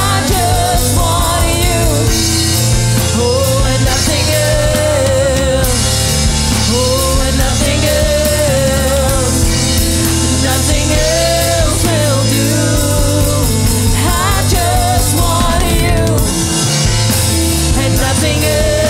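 Contemporary worship song played by a band with drums and bass, under a sung melody that holds steady throughout.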